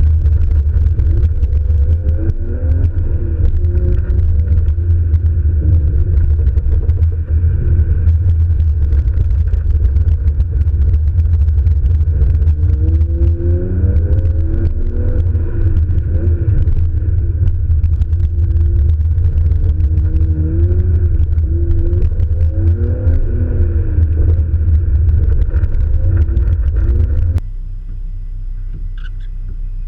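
Car engine heard from inside the car, muffled by a sealed camera housing, revving up and falling back again and again as the car is driven hard through an autocross course. About 27 seconds in it drops suddenly to a quieter, steady hum.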